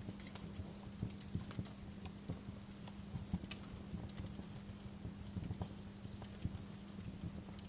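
Wood fire crackling in a fireplace: irregular snaps and pops over a low steady hum.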